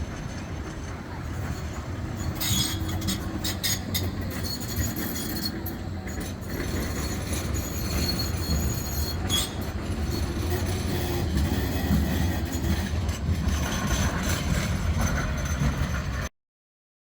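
Tram running along the rails: a steady low rumble, with wheel-on-rail clicks and squeals from about two seconds in. The sound cuts off suddenly near the end.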